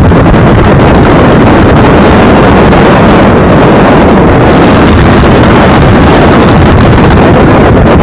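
Heavy wind buffeting the microphone over steady road noise from a vehicle moving at speed; loud and unbroken.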